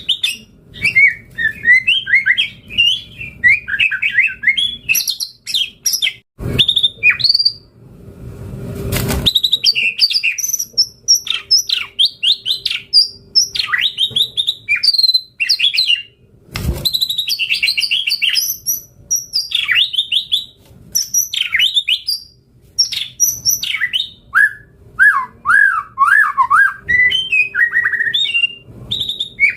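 White-rumped shama (murai batu) singing continuously in fast, varied whistled phrases, rich in mimicked fills. A few sharp clicks break in about a third and half of the way through.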